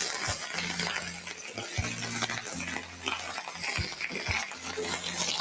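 Red mullet and sliced onion frying in oil in a pan, a steady sizzle, with a few dull knocks of pan and utensils.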